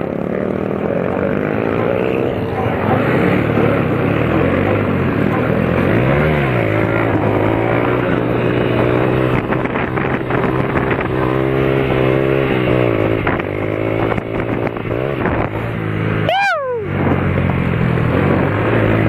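Vehicle engines revving at a car and motorcycle meet, their pitch rising and falling. One sharp high rev shoots up and drops back about sixteen seconds in.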